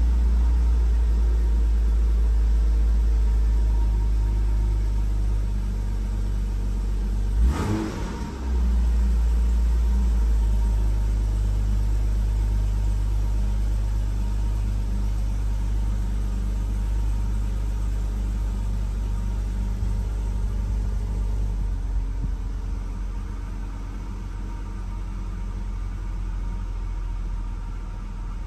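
1997 BMW 328i's 2.8-litre inline-six idling after a cold start, a steady hum that slowly quietens as the fast cold idle settles down. A single sharp knock about seven and a half seconds in.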